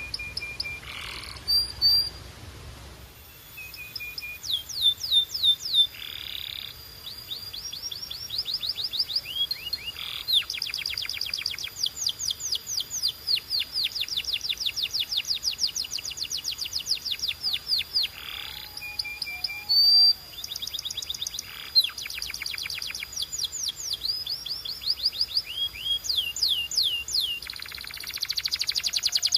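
Domestic canary singing a long, continuous song. It is made of fast trills, rows of quick, high, downward-sweeping notes repeated many times a second, broken now and then by short held whistles and brief buzzy notes.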